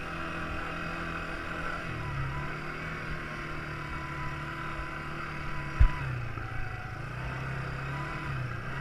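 Quad bike engine running, its pitch rising and falling as the throttle is worked. A single sharp low thump, the loudest sound, about six seconds in.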